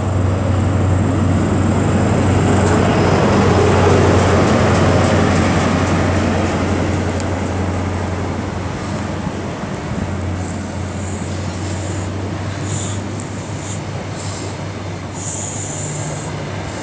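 InterCity 125 (HST) train departing: the leading Class 43 diesel power car goes by, loudest about four seconds in, then Mark 3 coaches roll past with a steady wheel-on-rail rumble over a low engine hum.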